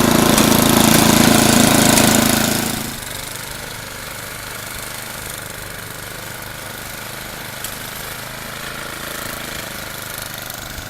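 An engine running steadily and loudly, dropping to a much quieter steady hum about three seconds in.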